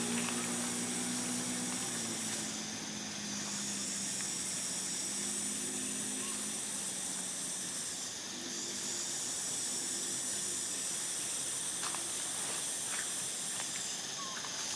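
Steady high-pitched hiss that dips briefly about every five to six seconds, over a faint low hum, with a few faint clicks near the end.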